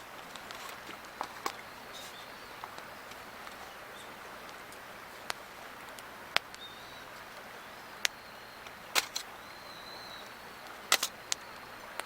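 Wood fire crackling, with scattered sharp pops over a steady outdoor hiss and a faint high chirp or two.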